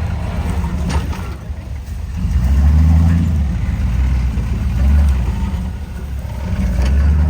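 Off-road truck engine running at close range, a low rumble that swells and eases a few times.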